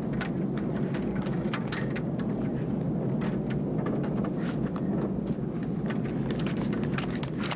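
Storm noise: a steady low rumble of wind and rain, with many sharp taps and clicks scattered over it.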